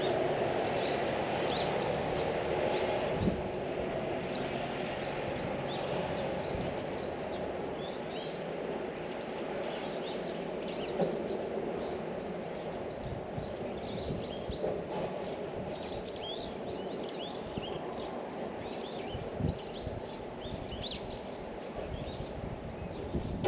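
Small birds chirping repeatedly in short high calls, over a low steady rumble that fades over the first few seconds, with a few soft knocks.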